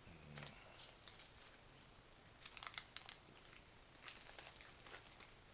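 Faint crinkling and rustling of MRE ration packaging being handled and pushed aside as trash, in a few short flurries of crackles, the busiest about halfway through.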